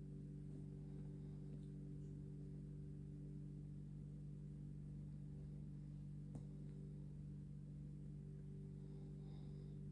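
A steady low hum of several held tones, with one light click about six and a half seconds in.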